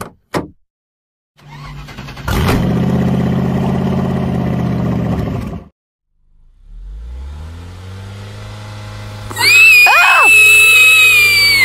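Two short clicks, then a car engine starts up and runs for about four seconds before cutting off abruptly. The engine starts again, rises and settles into a steady run. About nine seconds in, a loud, high-pitched scream comes in over it and falls in pitch near the end.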